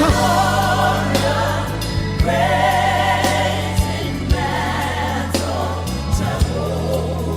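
Gospel worship singing by a group of voices over a steady accompaniment of low held chords, with sharp percussion hits every second or so.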